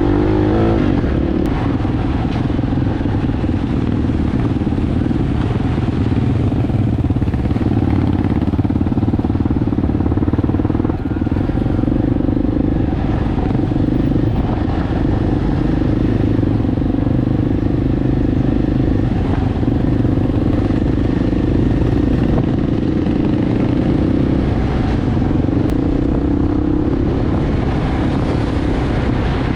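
Enduro motorbike engine running steadily under way, holding a nearly constant pitch with no big revs or gear changes.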